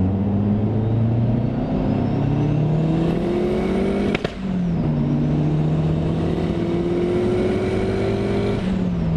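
Turbocharged Mazda MX-5 Miata NB 1.8 four-cylinder accelerating hard through the gears. The revs climb for about four seconds, break off at a gear change, climb again, and drop at a second shift near the end. A faint high turbo whine rises with the revs.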